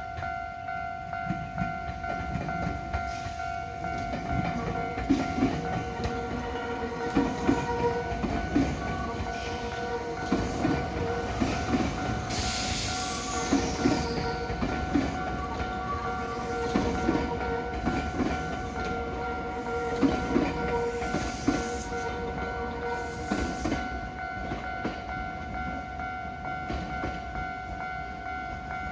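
A Nankai Main Line local electric train passes over a level crossing, its wheels clacking over the rail joints in a steady rhythm for about twenty seconds while the crossing's warning signal sounds continuously. About twelve seconds in there is a short burst of high-pitched noise.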